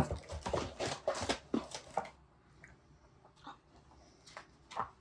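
Rustling and crinkling of handled snack packaging and paper, dense for about two seconds, then a few scattered faint clicks.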